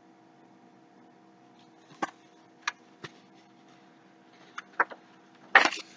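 Picture book being handled: several light clicks and taps, then a louder papery swish near the end, over a steady low hum.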